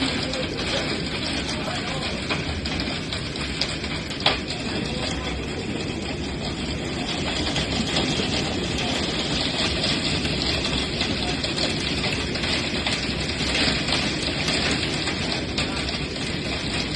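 Hailstorm: hail and heavy rain pelting down in a steady dense roar of small impacts, with one sharp crack about four seconds in.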